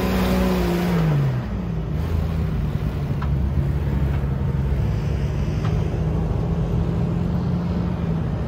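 Jeep engine running as it drives, its note dropping about a second in and then holding steady, with a constant hiss over it.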